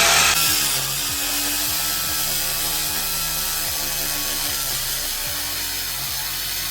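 Corded electric drill running steadily under load, boring a hole through a wall.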